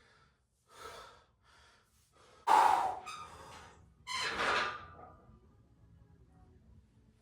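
A person's forceful breaths, a series of sharp inhales and exhales, the loudest about two and a half seconds in.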